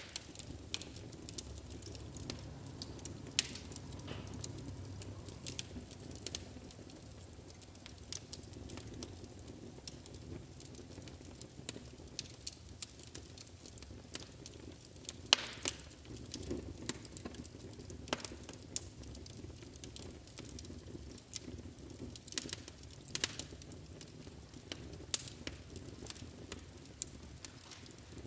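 Fire crackling in a fireplace: irregular snaps and pops, a few of them louder, over a low steady rumble of the flames.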